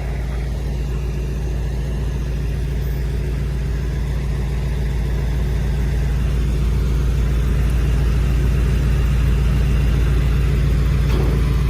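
Motor vehicle engine running steadily with a low hum, slowly growing louder.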